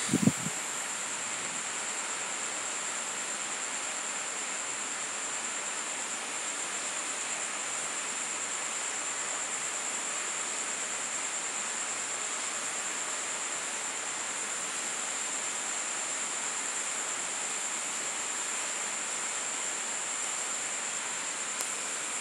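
Steady night rain hiss with a constant high-pitched drone of insects over it. A brief low thump comes right at the start.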